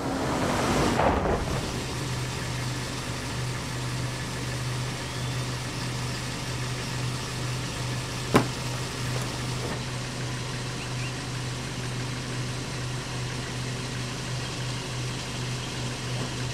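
Car engine idling steadily, heard from inside the cabin. A short rush of noise comes at the start, and a single sharp click about eight seconds in as the glove compartment is opened.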